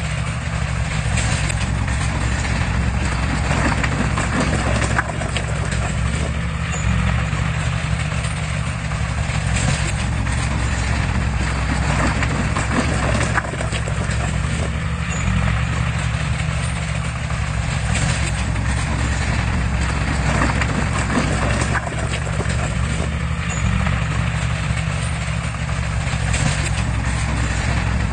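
Heavy earthmoving machine's diesel engine running steadily under work, with irregular knocks and rattles over the drone.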